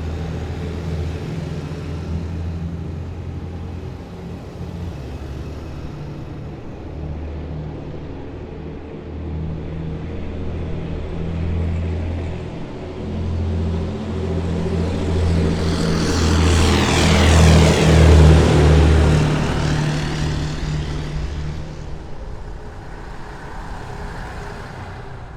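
Heavy military vehicles driving past with a low, steady engine tone. One vehicle passes close, rising to its loudest about two-thirds of the way through and then fading away.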